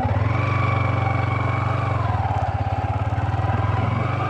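Yamaha R15 V3's single-cylinder engine running at low, steady revs, its firing pulses even throughout.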